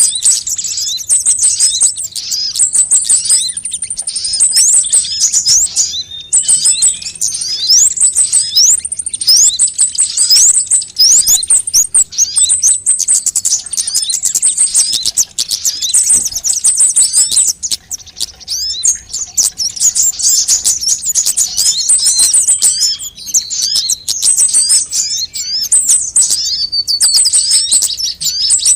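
Sunbirds singing and calling: a dense, unbroken stream of rapid, high-pitched chirps, trills and short rising sweeps from several birds overlapping.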